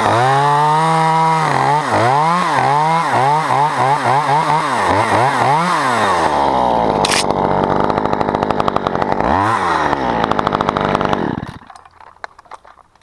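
Chainsaw running at high revs, its pitch rising and falling about twice a second for a few seconds, then holding steady before it stops abruptly near the end.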